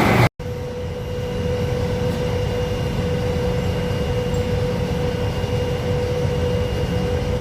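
Steady engine-room machinery noise with the ship's main engine running, a low rumble with a constant tone held through it. It cuts out for a moment just after the start, then carries on evenly.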